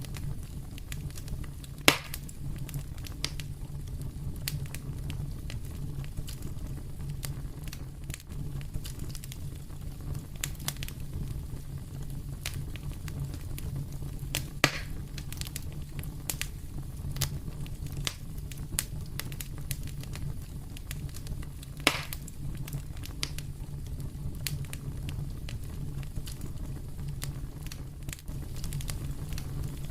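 Wood fire crackling in a fireplace: a steady low rumble of burning with frequent small snaps and pops, and a few louder pops about 2, 15 and 22 seconds in.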